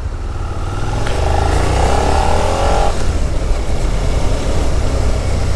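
Suzuki SV650X's 645 cc V-twin engine pulling away and accelerating: from about a second in its note rises for about two seconds, then settles into a steady run.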